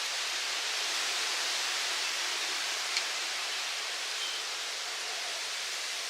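Wind blowing with a steady rushing hiss, with one faint tick about halfway through.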